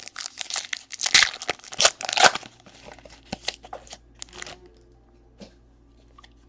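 A Panini Diamond Kings baseball card pack wrapper being torn open and crinkled: a burst of crackling for about two and a half seconds, then a few light clicks as it settles.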